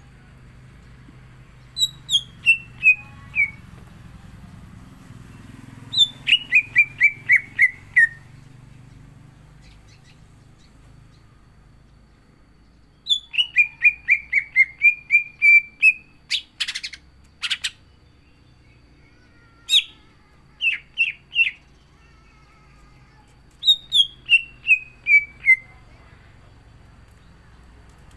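A cucak ijo (green leafbird) singing loud phrases of quick notes that run down in pitch, repeated several times with pauses between them. Two short harsh, rasping calls come about midway.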